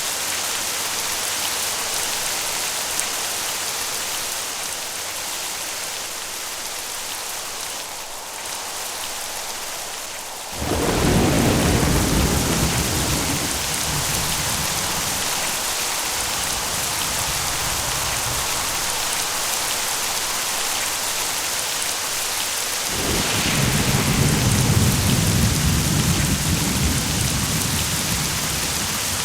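Steady heavy rain hiss. Two low rolls of thunder rumble over it: the first starts suddenly about a third of the way in and dies away over several seconds, and the second comes near the end.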